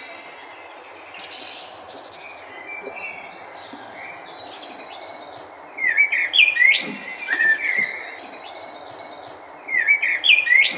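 Songbirds chirping and singing, with a louder run of whistled notes about six seconds in and again near the end, over a steady outdoor background hiss.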